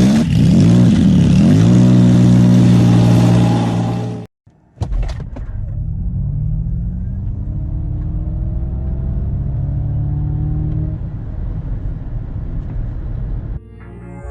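Ford Mustang Mach-E GT electric drivetrain under acceleration. It makes a motor whine in several tones over road noise, rising in pitch and then levelling off. The sound cuts out abruptly about four seconds in and resumes after a few clicks. Music comes in near the end.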